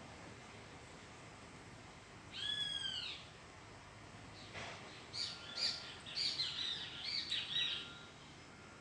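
A bird calling outdoors. It gives one drawn-out, arching note about two seconds in, then a quick run of chirping notes through the second half.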